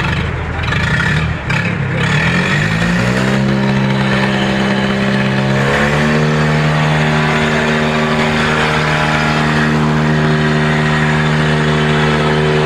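Tractor diesel engine revving up over about two seconds, then held at high revs and pulling hard under heavy load in a tractor tug-of-war, its pitch stepping up once more about six seconds in.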